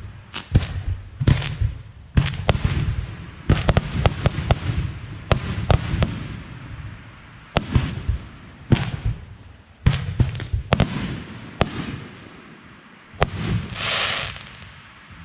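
Fireworks going off in quick succession: repeated sharp booms, many followed by crackling. Near the end there is a brief hissing effect.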